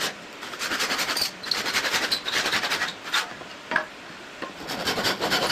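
Hand saw cutting through wood in repeated back-and-forth strokes of about a second each, pausing near the middle, where there are a couple of light knocks, before sawing resumes.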